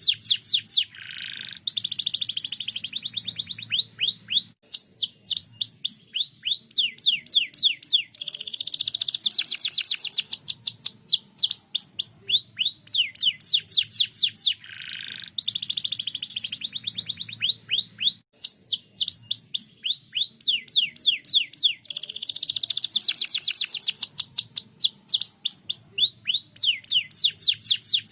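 Domestic canary singing nonstop: long rapid trills of quick downward-sweeping notes, phrase after phrase, broken only briefly by a lower buzzy note.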